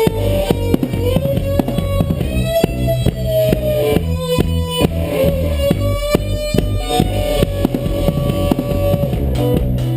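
Band playing an instrumental passage with no vocals: a held, gliding melody line over a steady drum beat and bass.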